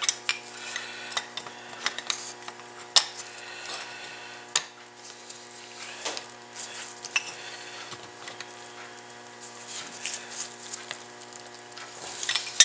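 Irregular metal clicks, clinks and scrapes of pliers and a brake pad working a new piston into an ATV's rear brake caliper, forcing it past the tight second seal. The sharpest clinks come about three and four and a half seconds in and again at the very end.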